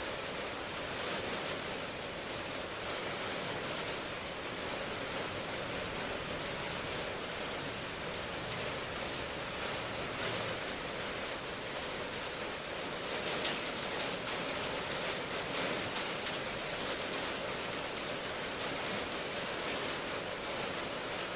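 Steady rain falling, a dense even patter of drops, slightly heavier from about two-thirds of the way through.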